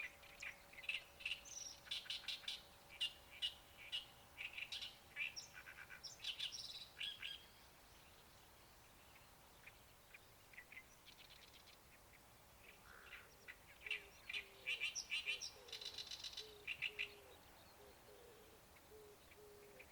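Small birds chirping and twittering in quick clusters of high notes, with a quieter pause in the middle. From about two-thirds of the way through, a low short call repeats evenly in the background.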